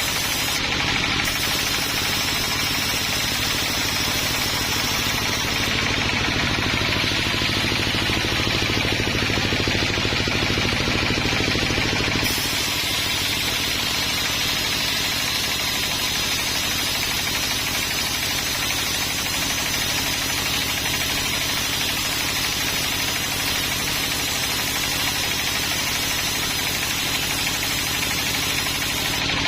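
Sawmill machinery running steadily. From about six to twelve seconds in the sound turns deeper and duller.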